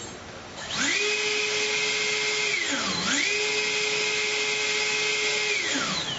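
Small electric motor spinning up to a steady high-pitched whine, briefly winding down and spinning back up about halfway through, then winding down near the end.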